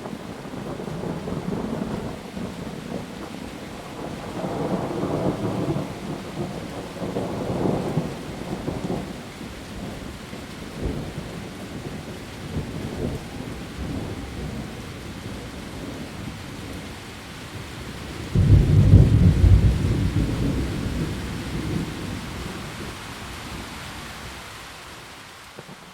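Heavy rain hissing steadily on leaves, with rumbles of thunder rolling through in the first half and a loud thunderclap about two-thirds of the way in that rumbles away over several seconds.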